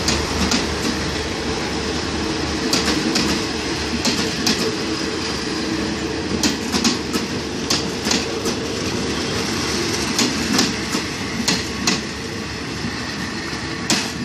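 Passenger coaches of an express train rolling past close by: a steady rumble, with the wheels clicking over the rail joints in repeated pairs. It grows a little quieter near the end as the last coaches go by.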